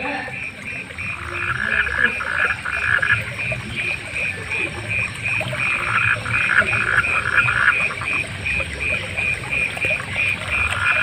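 Frogs calling at night. A steady, higher, evenly repeating call runs under louder trains of rapid croaking pulses, which come three times: about a second in, around the middle, and again near the end.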